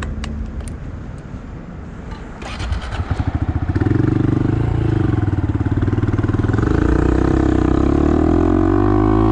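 Honda Monkey's small single-cylinder engine running at a low, even note, then louder from about three to four seconds in as the bike gets under way, its pitch rising and dipping as it pulls through the gears.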